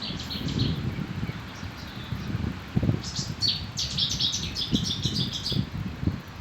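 Small birds chirping: quick runs of short, high chirps, thickest in the middle stretch, over a low rumbling noise.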